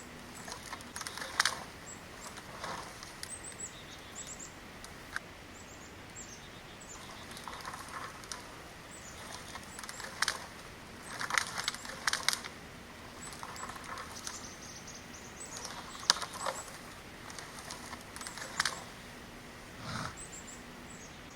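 Intermittent crackling and rustling of brush and twigs in dense woods, in short scattered bursts several seconds apart, with faint high chirps between them.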